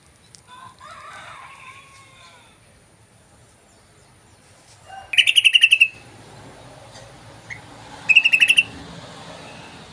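Yellow-vented bulbul giving two loud bursts of rapid chattering 'cruk-cruk-cruk' notes, each under a second long, about five and eight seconds in, with a fainter warbling call about a second in.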